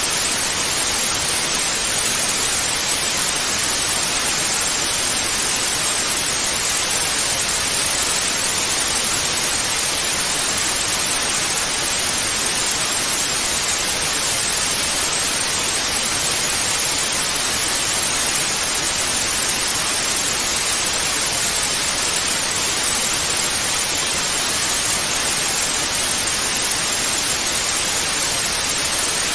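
Television static: a steady, even hiss of white noise that does not change.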